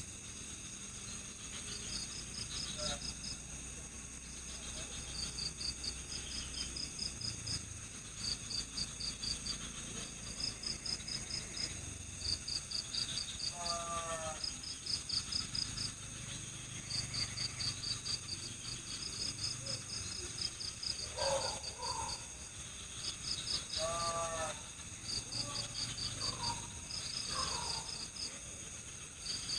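Night-time insect chorus: crickets chirp in pulsed bursts, about one every second or two, over a steady high-pitched drone of other insects. A few short, lower-pitched calls from another animal break in now and then.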